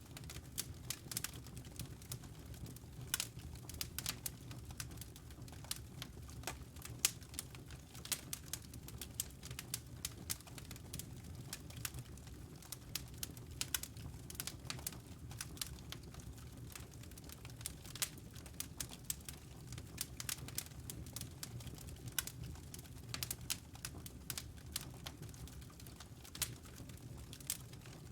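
Wood fire crackling: irregular sharp pops and snaps, several a second, over a low steady rumble of the burning.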